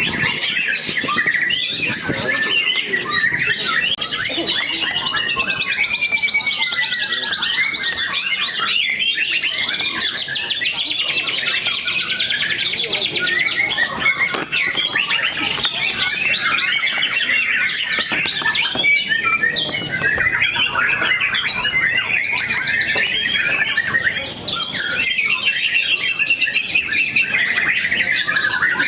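White-rumped shamas (murai batu) singing continuously, several birds' songs overlapping in a dense run of rapid trills, chirps and gliding whistles.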